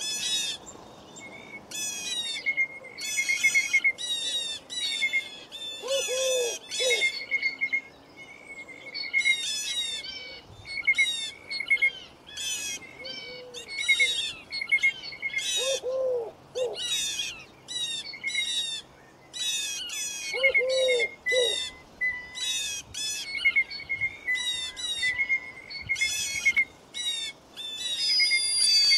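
Songbirds singing in a busy chorus of quick, high trilled phrases that repeat over and over, with a lower, shorter call sounding three times.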